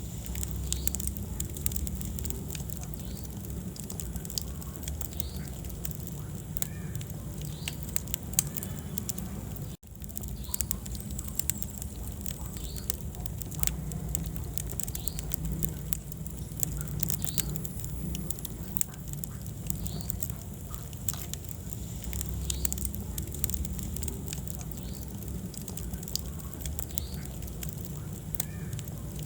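Wood fire burning in a fireplace, crackling and popping in frequent sharp snaps over a steady low rumble of flame. The sound cuts out for a split second about ten seconds in.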